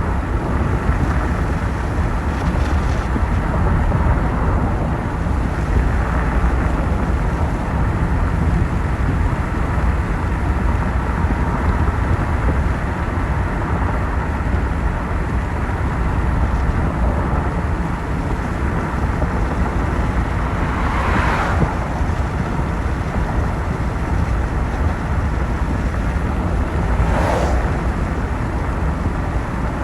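Steady road noise of a moving car, tyres and engine on a wet road in light rain, with three brief whooshes in the last ten seconds.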